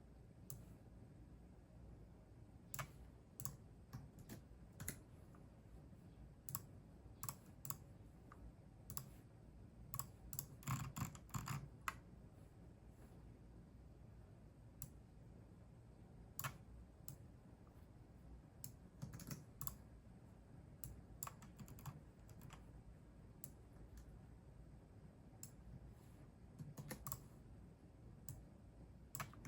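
Computer keyboard typing, soft and intermittent: scattered keystrokes with a quick flurry about a third of the way in and several pauses of a few seconds between bursts.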